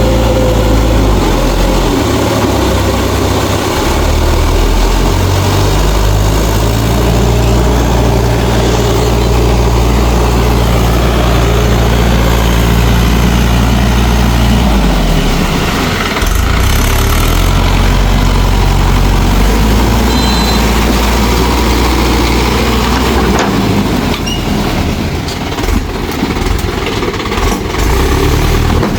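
Mahindra 4WD DI tractor's diesel engine running under load. Its low note shifts a few times in the second half, and there are a few knocks near the end.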